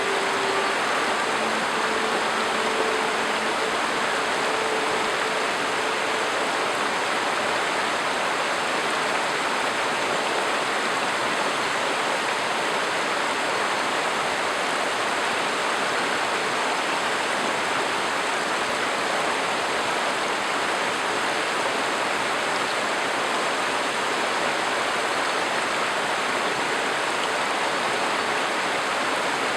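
A river rushing steadily, a constant even wash of water noise. A faint hum fades out in the first few seconds.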